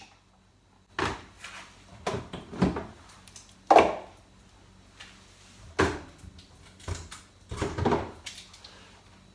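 Refrigerator drawers being pulled out and handled: a series of clunks and scrapes a second or so apart, the loudest about four seconds in.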